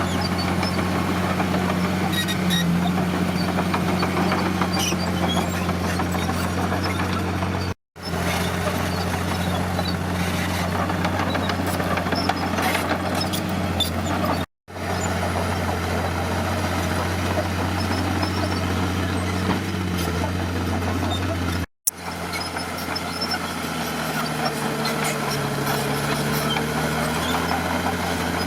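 Diesel engine of heavy earthmoving machinery running steadily with a low drone. The sound cuts out for a moment three times. Near the end the engine pitch dips and then rises again.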